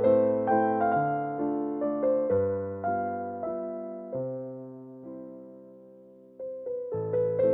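Background piano music: slow, gentle chords over a bass line, the notes dying away to a soft point before new chords come in near the end.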